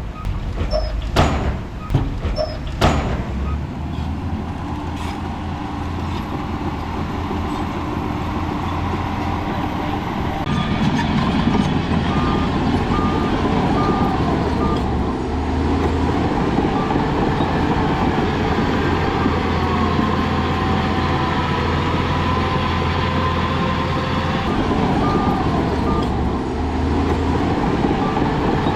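Heavy diesel earthmoving machinery running steadily, louder from about ten seconds in, with a few sharp metallic clanks in the first three seconds. A reversing alarm beeps at an even pace, a bit over once a second, in two spells: one around the middle and another near the end.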